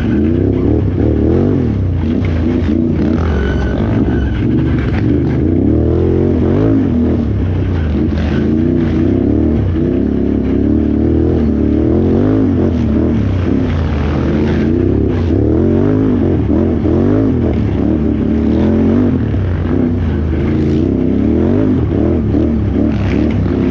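Can-Am Renegade X xc 1000R ATV's V-twin engine under hard riding, revving up and down continuously, its pitch rising and falling every second or so.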